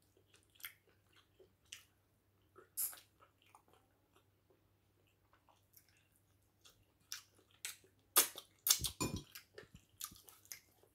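Close-up chewing and wet mouth smacks of a person eating soft egusi soup with potato fufu by hand. The soft smacks come scattered, with a burst of louder smacks and a low thump about eight to nine seconds in.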